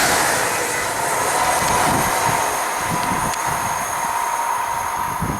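London Midland Class 350 electric multiple unit passing through. It makes a steady rush of wheel and air noise with a held whine, fading slowly as it draws away.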